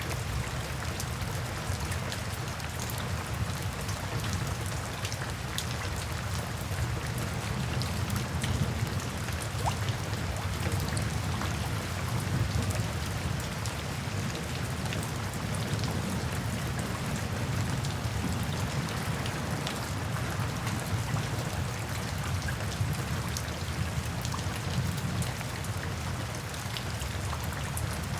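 Steady rain falling, with many small drop ticks over a low, even rumble.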